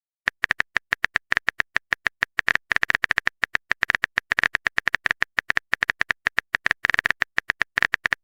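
Rapid, irregular run of short phone-keyboard typing clicks, several a second, the typing sound effect of a texting app.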